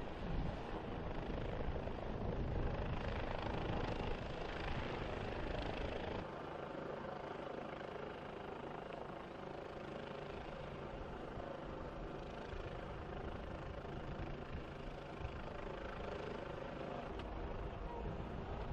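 Single-engine Bell OH-58 Kiowa helicopter running, with its turbine and rotor sound. A heavy low rumble gives way suddenly about six seconds in to a thinner, steadier hum with a few steady tones.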